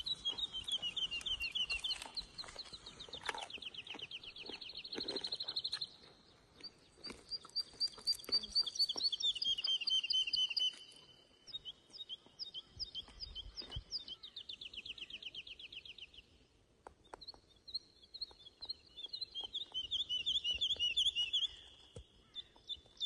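Songbirds singing: phrases of fast trilled notes, each lasting a few seconds, with short pauses between them and a few faint clicks underneath.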